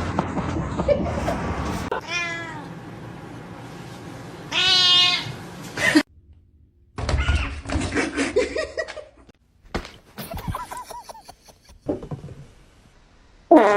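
Cats meowing: several separate meows, the loudest about five seconds in, with scattered knocks and thumps. The sound cuts off abruptly twice.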